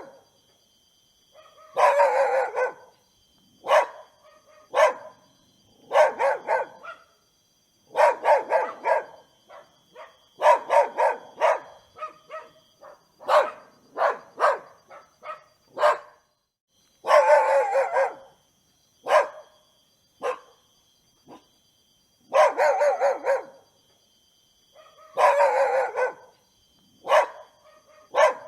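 A dog barking in repeated bouts of several quick barks, with short pauses between bouts.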